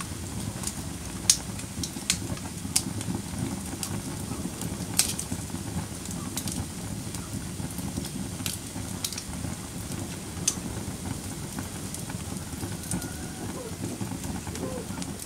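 Wood fire burning in a fireplace: a steady low rumble of flames with scattered sharp crackles and pops, the loudest a little over a second in and about five seconds in.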